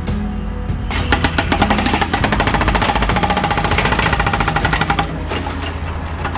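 Hydraulic breaker hammer on a 1/16-scale RC excavator pounding a rock in a rapid, even rattle. It starts about a second in and stops about five seconds in.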